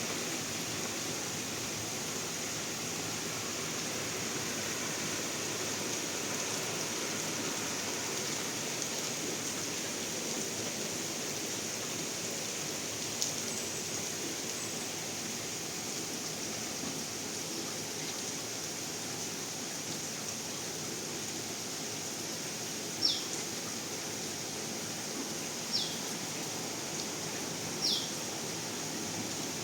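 Steady hiss of falling rain water. Near the end, three short high chirps each sweep quickly down in pitch from a small bird.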